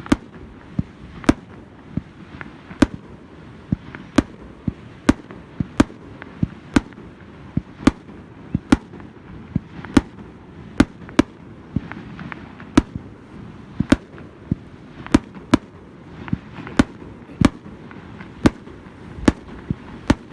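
Fireworks display: a steady, irregular run of sharp bangs, about one to two a second, from shells bursting overhead.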